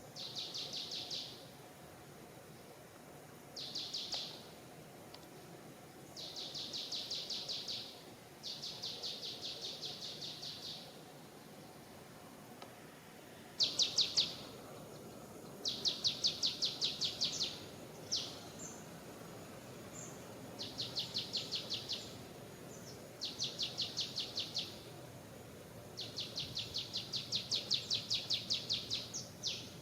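A bird giving repeated rapid, high-pitched trills, each lasting one to two seconds and coming every two to three seconds, over a faint steady background of forest noise.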